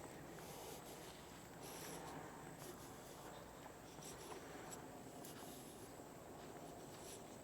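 Faint, scattered scratchy footsteps on a soft sandy trail, over a quiet steady hiss.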